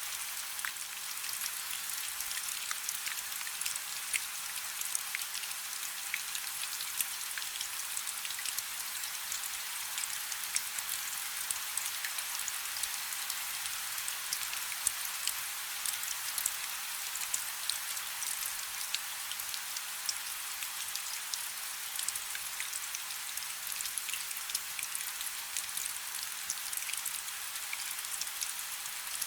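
Steady rain falling on a river's surface: a dense, even hiss made of countless small drop ticks, with little low rumble.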